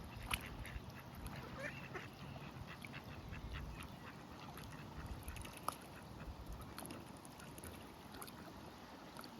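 Ducks and geese calling on a lake: many short, scattered calls over a steady low rumble.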